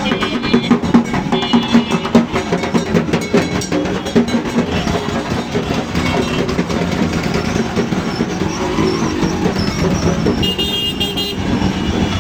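Road traffic mixed with music, with a fast run of drum beats over the first few seconds. A vehicle horn sounds for about a second near the end.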